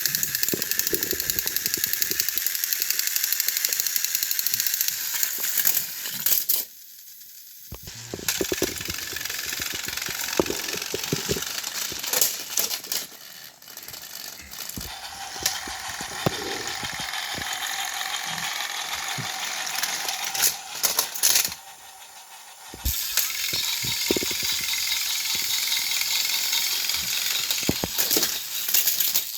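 Battery-powered Thomas & Friends toy engines running on plastic track: a steady, high-pitched motor whir with the rattle of wheels and gears. It drops away briefly twice, about seven seconds in and again about twenty-two seconds in, then resumes.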